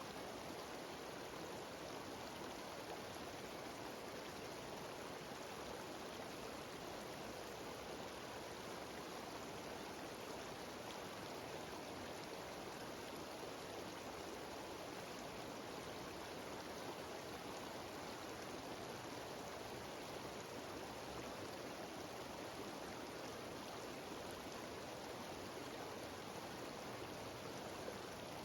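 Mountain waterfall and cascading stream, water rushing steadily and evenly throughout.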